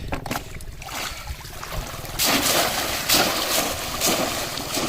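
Shallow floodwater splashing and sloshing in irregular bursts, louder from about two seconds in.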